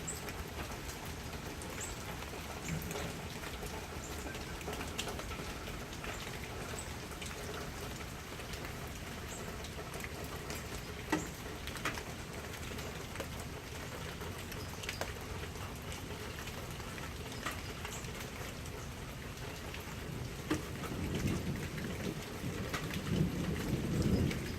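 Steady rain with individual drops ticking on a near surface, and a low rumble of thunder swelling in the last few seconds.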